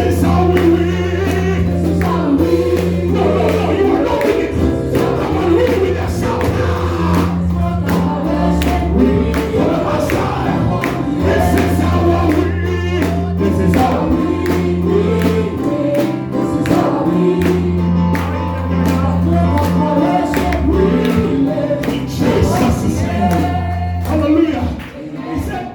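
Gospel praise music: a choir singing over held bass notes and a steady drum beat, with a brief drop in level near the end.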